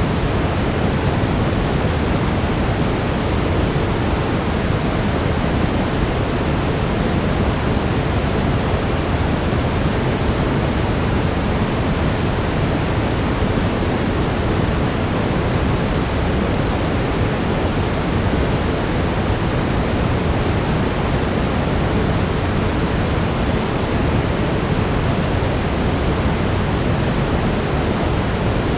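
Steady brown noise: an even, unchanging rushing hiss weighted toward the low end, used as a relaxation and sleep background.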